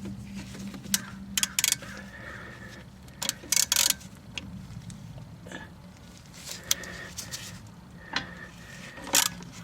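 Irregular metallic clicks and clinks of a wrench working a 14 mm nut on a car's front strut assembly, over a low steady hum.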